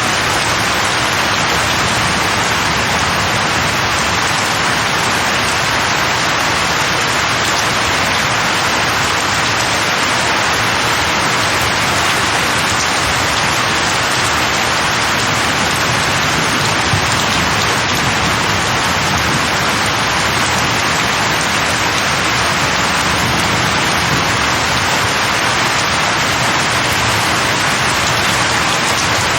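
Steady rain falling on leaves: an even, unbroken hiss.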